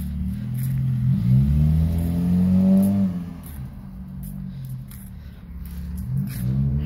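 Eighth-generation Honda Civic coupe's four-cylinder engine revving as the car accelerates away, its pitch rising for about two seconds and then dropping off, quieter as the car moves down the street.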